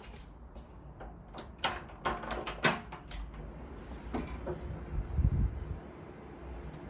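A run of sharp knocks and bangs, like doors or cupboards being banged, the loudest about two and a half seconds in, followed by a low thud about five seconds in.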